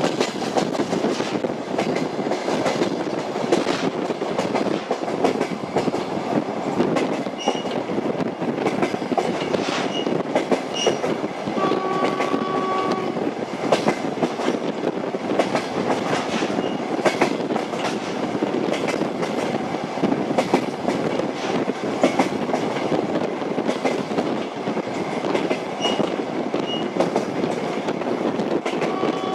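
Train wheels clattering over the rail joints at running speed: a steady rumble with a continual run of clicks. A train horn sounds once for about a second, roughly twelve seconds in, and again right at the end.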